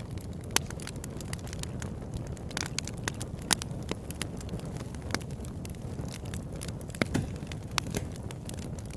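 Campfire burning: frequent sharp crackles and pops at irregular intervals over a steady low rumble.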